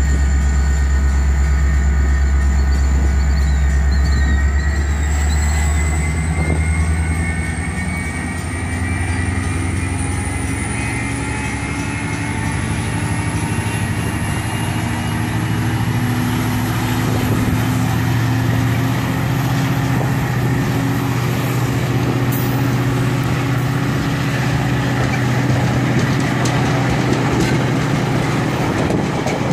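Metra commuter train of stainless-steel bilevel cars rolling past close by, pulled by an MP36 diesel locomotive: a steady rumble of wheels on rail with a whine that rises slowly in pitch as the train gathers speed. A deep low rumble is strong in the first several seconds, then fades.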